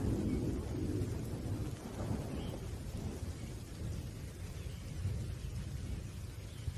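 Thunder rumbling low and slowly fading away, with rain falling steadily.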